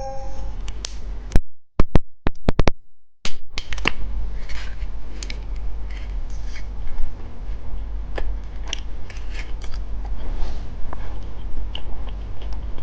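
Close-miked scattered clicks and crackles of candy and its packaging being handled, with a short near-silent gap about two seconds in.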